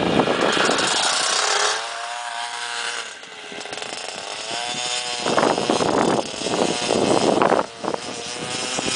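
Small two-stroke engine of a KTM 50 kids' dirt bike running under a rider. Its pitch dips and climbs back in the middle, and the throttle blips up and down several times near the end.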